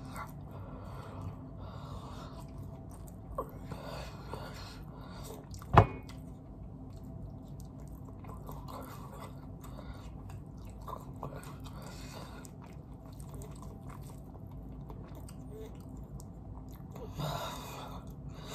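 A person chewing fried chicken close to the microphone, with soft wet mouth sounds coming and going. A single sharp click about six seconds in is the loudest sound, and a short louder noise comes near the end.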